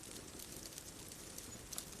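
Wood fire crackling: frequent small, sharp pops and ticks over a soft, steady hiss, with one louder pop near the end.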